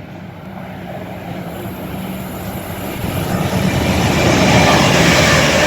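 Class 807 Evero electric train approaching through the station at speed. Its rumble and rush of wheel and air noise grow steadily louder as it nears.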